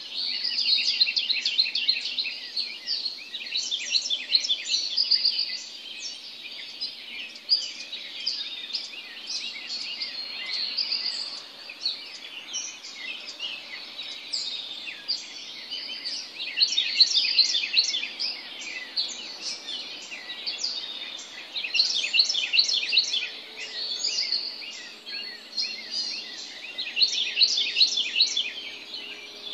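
Morning dawn chorus of many songbirds chirping and singing at once: a dense stream of rapid, high-pitched notes that swells louder every few seconds.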